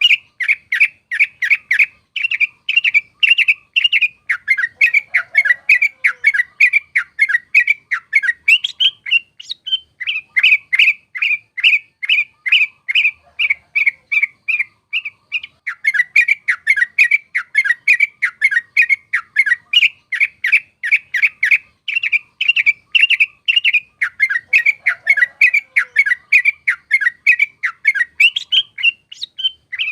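Yellow-vented bulbul (trucuk) song: a fast, even string of chattering notes, about three a second, running on almost without a break, with short pauses about ten and sixteen seconds in and just before the end.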